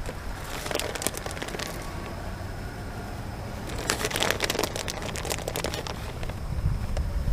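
Wind rumbling on the microphone, with two spells of crackling, about half a second in and again around four seconds in.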